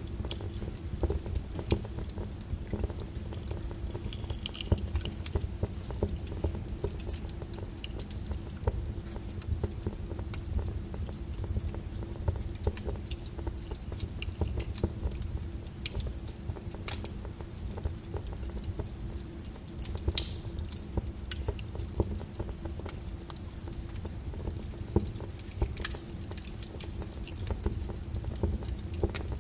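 Wood fire in a fireplace crackling: frequent sharp snaps and pops, irregular, over a steady low rumble of the flames, with a few louder pops scattered through.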